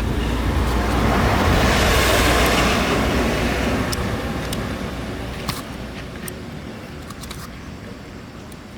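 A motor vehicle passing by: a loud rushing noise that swells to its loudest about two seconds in, then slowly fades away.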